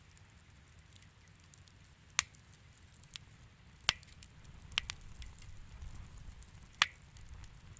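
Wood fire in a fireplace crackling, with a low rumble of the flames and four sharp pops from the burning logs.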